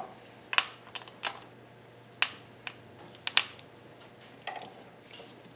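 A handful of sharp, irregular metallic clicks and clinks from a bolt and hand tools being worked at a car's engine mount.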